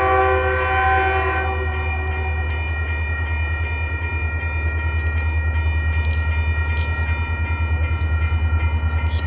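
Diesel locomotive horn sounding a multi-note chord that ends about a second and a half in, over the steady low rumble of the locomotive, which builds into a rhythmic throbbing as the train passes.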